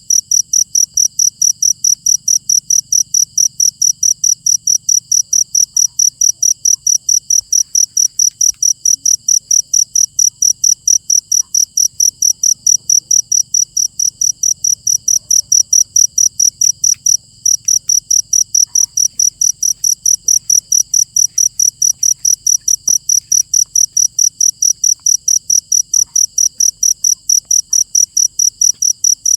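A cricket chirping steadily, about three evenly spaced high-pitched chirps a second, with one brief break about seventeen seconds in.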